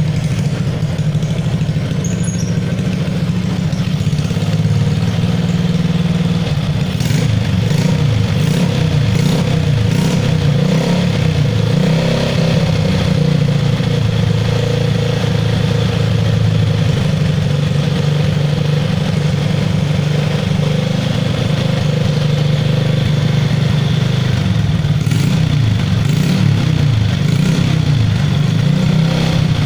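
Honda Supra X 125's single-cylinder four-stroke engine idling steadily through a gutted, open-pipe (brong) Satria FU single-tube aftermarket exhaust, loud and even.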